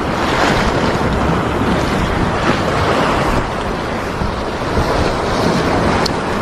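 Sea waves washing against the shore, with wind buffeting the microphone.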